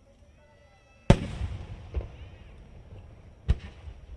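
Aerial firework shells bursting. A sharp bang comes about a second in and is followed by a rolling rumble, then a lighter bang a second later, and another sharp bang near the end.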